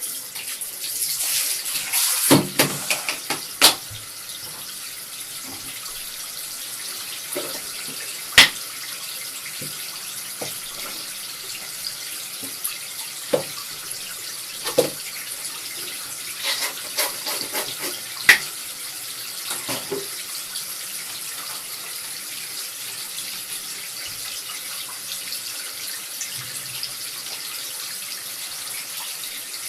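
Tap water running steadily into a bath or sink while a cat is bathed, with splashes and knocks now and then, the busiest stretch in the first few seconds.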